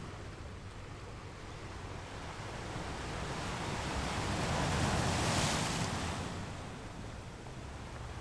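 Ocean waves washing onto a shore: a steady wash of surf that swells as a wave breaks about five seconds in, then ebbs back.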